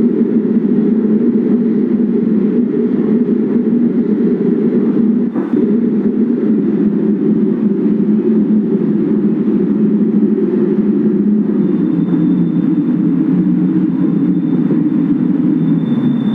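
Light-rail train running steadily on the track, an even, loud rumble of wheels on rail, with a faint thin high whine coming in about halfway through.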